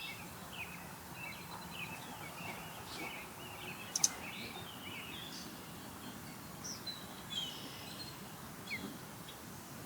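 Birds chirping over a steady outdoor hiss: a quick run of short chirps at first, then scattered higher calls later, with one sharp click about four seconds in.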